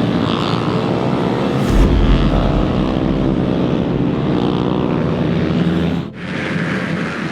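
Small-capacity racing motorcycle engines running at high revs on the circuit, a steady buzz that shifts a little in pitch. It breaks off abruptly about six seconds in, then carries on.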